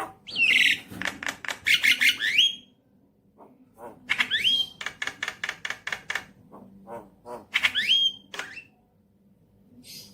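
Javan myna singing: three phrases of rapid clicking notes, each ending in a few rising squeaky glides, with short pauses between.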